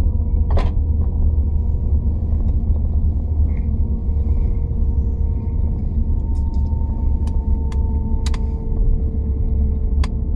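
Running noise of a CR400AF-AE Fuxing sleeper high-speed train heard from inside the carriage: a loud, steady low rumble, with a few sharp clicks scattered through it.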